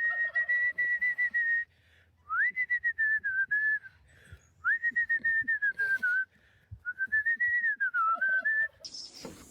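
Clear whistling: four long held notes, each sliding up at the start and then wavering slightly, with short pauses between them.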